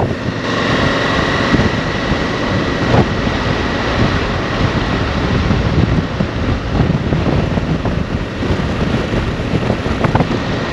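Motorcycle on the move with wind buffeting the microphone: a steady rush of wind and road noise over the bike, with a faint steady high tone throughout.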